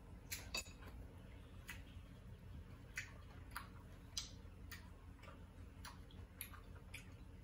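Faint, sharp lip and tongue smacks of a man chewing a mouthful of rice and vegetables, coming about every half second or so, over a low steady hum.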